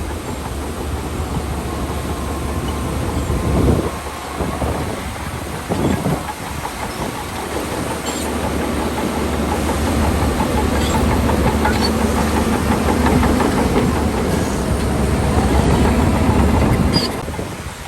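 Crawler bulldozer working: its diesel engine runs under load with the fast rhythmic clanking of steel tracks, which grows stronger in the second half.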